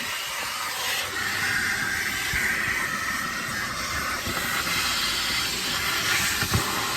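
Car wash vacuum hose running, a steady rushing hiss of suction air, with a brief low thump near the end.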